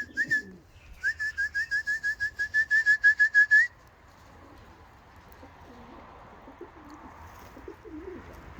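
Racing homer pigeons in a loft: a fast, even run of high chirps, about six a second, that stops sharply about three and a half seconds in, followed by soft, low, wavering cooing.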